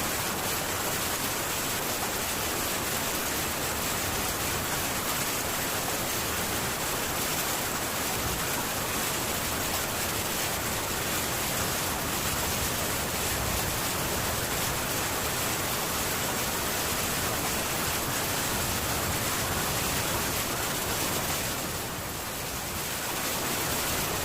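Heavy rain falling steadily on a metal tin roof, an even hiss with no thunder, easing slightly for a moment about 22 seconds in.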